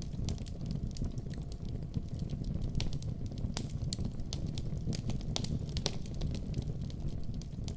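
Fire burning in a fireplace: irregular sharp crackles and pops, several a second, over a steady low rumble of flames.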